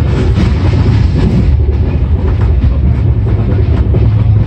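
Running noise of the CR Rajdhani Express heard from inside a passenger coach: a loud, steady low rumble of the moving train, with scattered clacks of the wheels on the rails.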